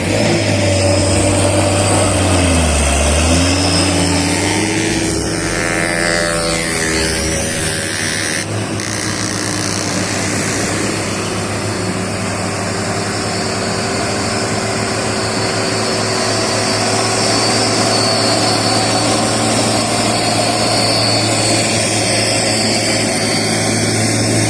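Heavy truck diesel engine running hard under load on a steep climb, a steady low drone; its pitch dips and climbs back a couple of seconds in.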